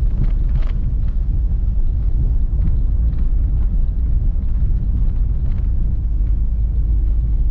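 Car driving on an unpaved dirt road: a steady low rumble of tyres and running gear, with light scattered ticks from the rough surface.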